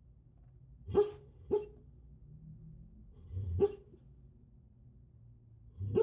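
A sleeping Labrador–Golden Retriever mix giving short, muffled barks in her sleep, four times, a pair about a second in and then two more spaced out.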